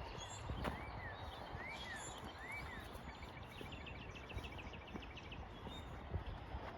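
A songbird calling: three short notes that rise and fall, then a fast trill of short notes. Beneath it are footsteps and a low rumble of wind or handling noise.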